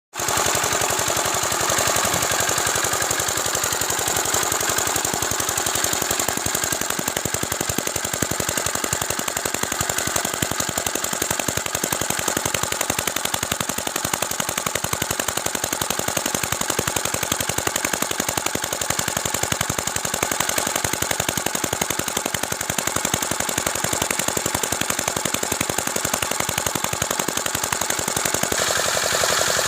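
Field Marshal single-cylinder diesel engine running steadily, its firing strokes a rapid, even run of sharp knocks.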